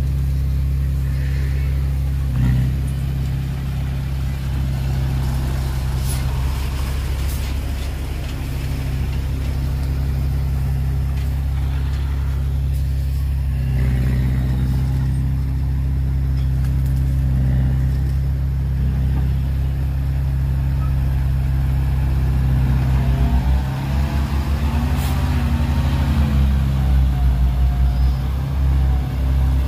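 Heavy diesel engine of earthmoving machinery running steadily at a low, even pitch, with a few sharp clicks. About 23 seconds in, the engine note turns uneven and pulsing.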